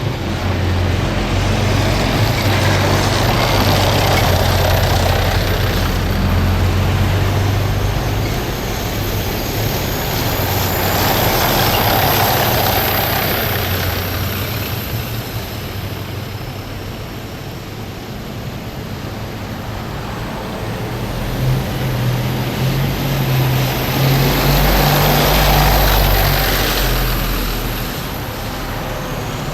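Heavy military vehicles driving past in a column, engines running and tyres or tracks on the road. The sound swells and fades as each one passes: three passes, about four seconds in, around twelve seconds, and near twenty-five seconds.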